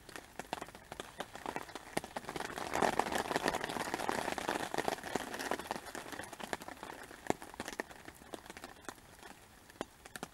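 Rain falling hard, with many sharp drops tapping close to the microphone over a steady hiss; the downpour swells louder about three seconds in, then eases.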